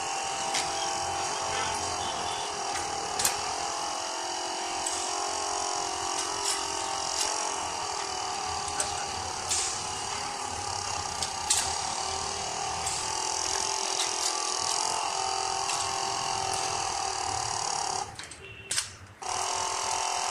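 Small DC air compressor running with a steady buzzing hum, with sharp clicks every second or two. It cuts out for about a second near the end, then runs again.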